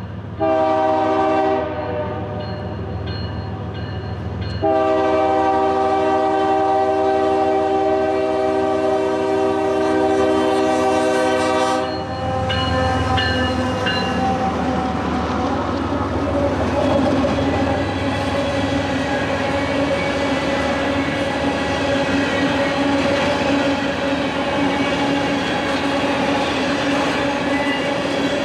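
Diesel freight locomotive horn sounding a short chord, then a long one of about seven seconds, followed by the train rolling past with steady wheel-on-rail noise.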